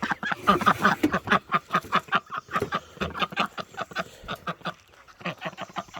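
Domestic ducks quacking in quick runs of short calls, several a second, with a brief lull after about four seconds before they pick up again.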